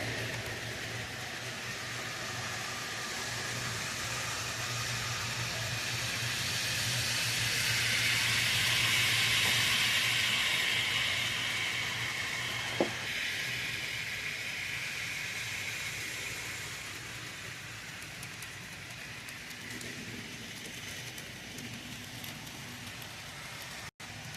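Model train running on its track and passing close by: a rolling rush of wheels on rail that swells to its loudest about nine seconds in, then fades away. A steady low hum runs under it, and there is a single sharp click about thirteen seconds in.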